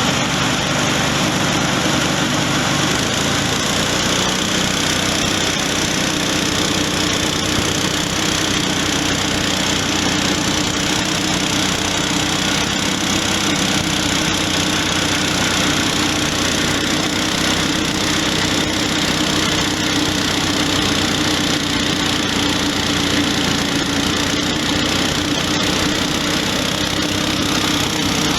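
Small rice-husk grinding mill running steadily, giving a constant machine hum with an even mechanical noise.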